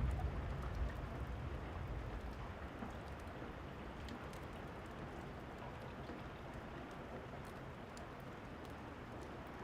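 Steady rain falling, with a low rumble that fades away over the first few seconds. Sparse sharp crackles of a wood fire sound over the rain.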